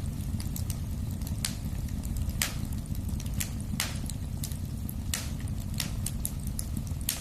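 Wood fire crackling in a fireplace: a steady low rumble of burning with frequent small ticks and a sharp louder pop every second or so.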